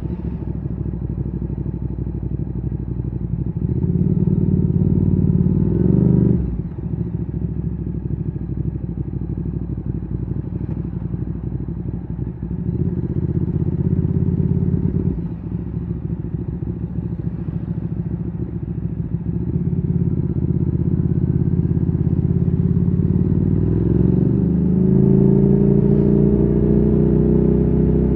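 Ducati Streetfighter 848's L-twin engine through a Termignoni exhaust, ridden at low speed. It runs mostly steady and lumpy. The throttle rises gently about four and thirteen seconds in and is shut sharply about six and fifteen seconds in, and a rising pull comes near the end.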